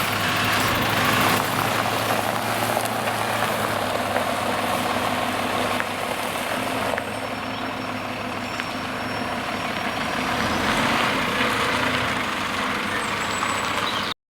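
Delivery truck's diesel engine running steadily while its HIAB loader crane works, the level dipping slightly and then rising again; the sound cuts off suddenly near the end.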